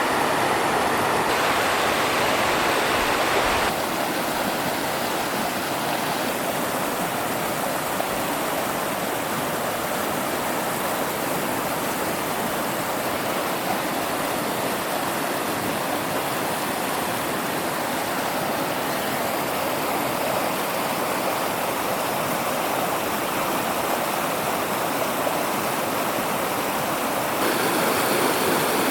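Mountain river flowing steadily, an even rush of water. It steps a little quieter about four seconds in and back up near the end.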